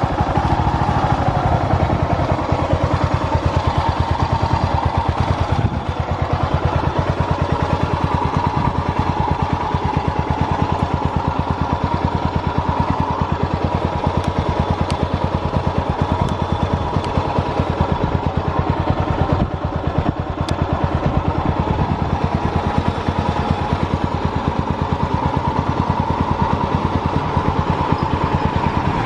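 Yamaha SRX600's air-cooled single-cylinder four-stroke engine running at a steady idle, with an even, regular beat. The seller calls it free of abnormal noise.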